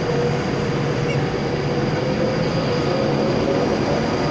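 Virgin Pendolino electric train moving along the platform: a steady hum over the rumble of the train.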